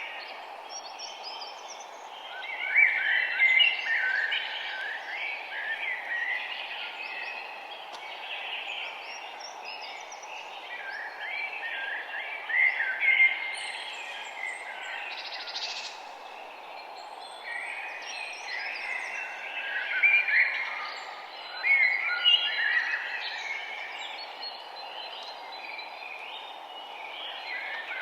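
Several small birds chirping and singing in overlapping bursts over a steady background hiss.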